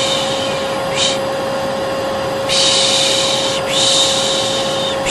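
Hair dryer running steadily with a constant whine, overlaid by long shushing 'shhh' sounds that break off briefly several times. This is soothing noise for a colicky baby.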